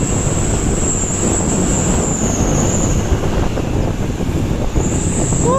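Steady low rumble of a truck's engine and road noise while driving. A horn starts sounding just at the very end.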